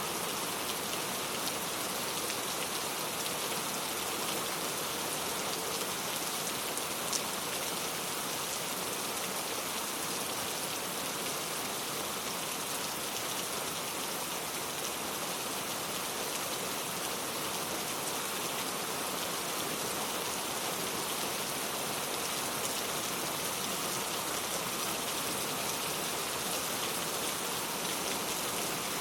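Steady rain falling, a dense even hiss of drops with fine scattered patters.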